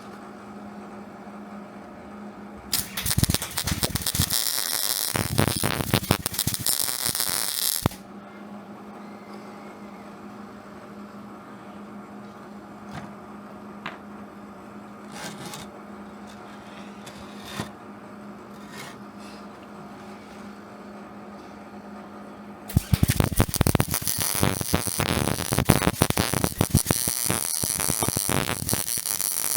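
MIG welder laying weld: two runs of dense sputtering crackle, one starting about three seconds in and lasting some five seconds, another starting near the end. Between the runs a steady hum and a few faint clicks.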